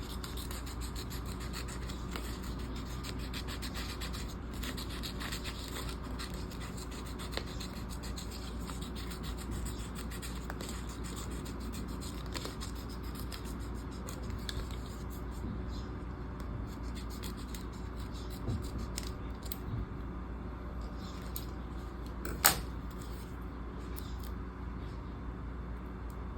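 PET tape and planner paper being handled and trimmed by hand: light scratching and rubbing with small clicks, over a steady low hum. One sharp click about 22 seconds in.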